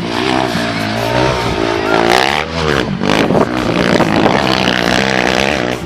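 Rally motorcycle engines revving hard, their pitch rising and falling several times as bikes accelerate and pass.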